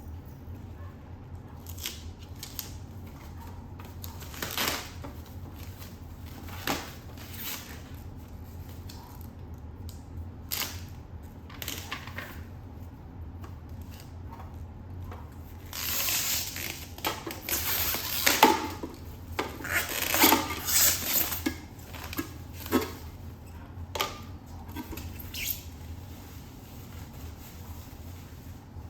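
Unpacking a boxed coffee maker: cardboard and packaging being handled, with scattered knocks and clicks and a longer stretch of rustling and scraping from about 16 to 21 seconds in.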